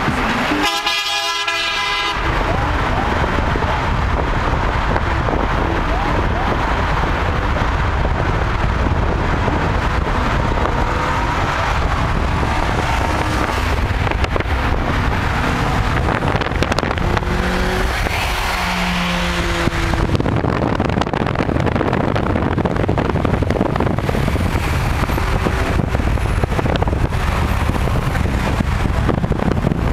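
Steady road and wind noise of a car cruising at highway speed, with a low rumble throughout. A brief pitched tone sounds in the first two seconds.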